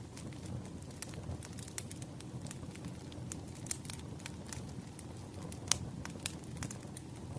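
Wood fire crackling: irregular sharp pops and snaps over a low, steady rumble of burning logs, with one louder snap about two-thirds of the way through.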